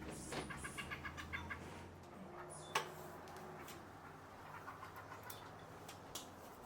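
A bird calling: a quick run of about eight evenly spaced notes in the first second and a half. Near the three-second mark comes a single sharp click, the loudest sound, followed by scattered faint ticks.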